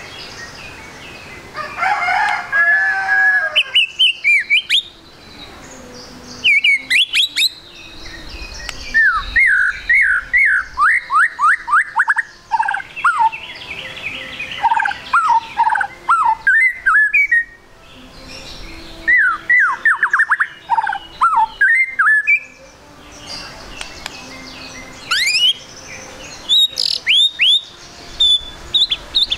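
White-rumped shama (murai batu) singing in varied bursts of loud whistled phrases, including runs of quick falling notes, with short pauses between phrases.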